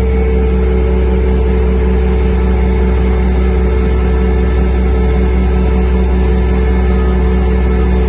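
Renault Camiva fire truck's diesel engine running steadily at a constant, unchanging speed.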